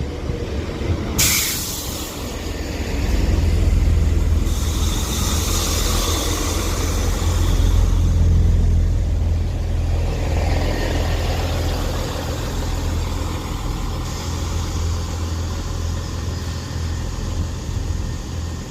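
Class 165 diesel multiple unit drawing into the platform: a deep steady diesel rumble, a sudden short hiss of air about a second in, and a longer hiss of the air brakes from about four to eight seconds in.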